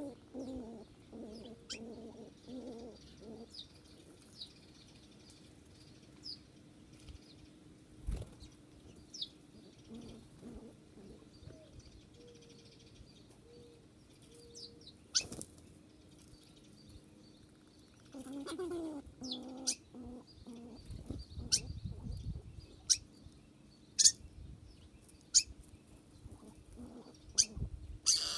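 Wild birds: scattered short, high chirps, with low warbling calls near the start and again about 18 seconds in, and several sharp clicks.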